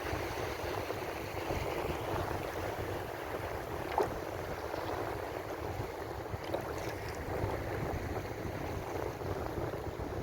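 Ocean waves washing in a steady, unbroken hiss and rush, with one short click about four seconds in.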